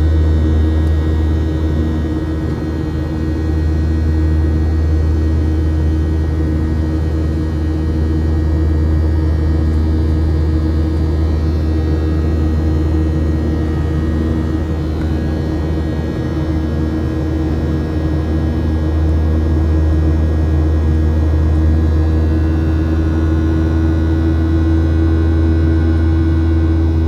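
Steady drone of a Boeing 737-700 heard inside the passenger cabin, made by its CFM56-7B jet engines and rushing air: a heavy low hum with steady tones over it, one of which throbs slowly about once a second.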